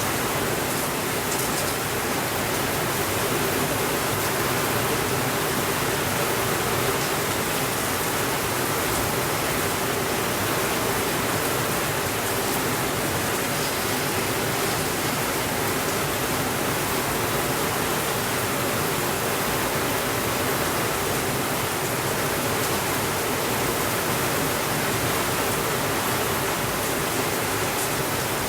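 Steady rainfall, an even, unbroken hiss with no change in loudness.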